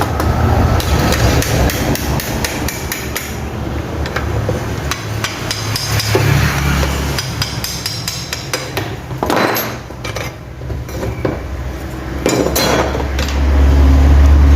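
Repeated hammer taps and metal knocks on a small washing-machine motor being taken apart to turn its field around, over a steady low hum.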